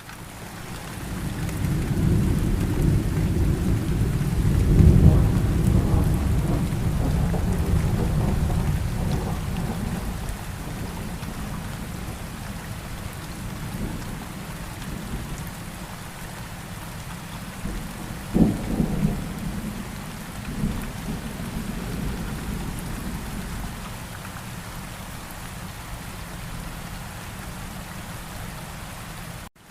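Steady rain with a long rolling thunder that builds, peaks about 5 seconds in and fades over several seconds. A shorter, sharper crack of thunder comes about 18 seconds in.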